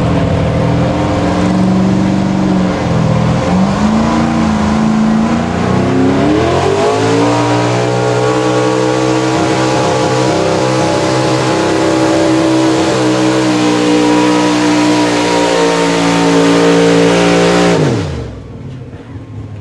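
Pulling truck's engine at full throttle, pitch wavering low at first, then climbing steeply after about six seconds and holding high and steady. It drops off suddenly near the end as the throttle is let off.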